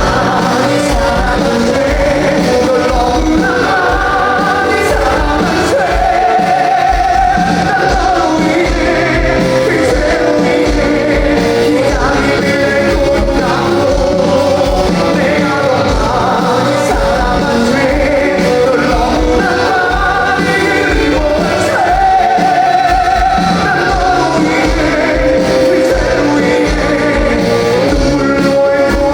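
Live pop-rock band playing with a sung lead vocal over a steady drum beat at a concert.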